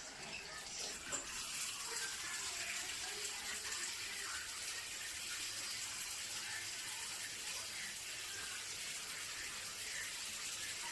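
Water running steadily from a shower set, an even hiss of spray that grows a little stronger about a second in.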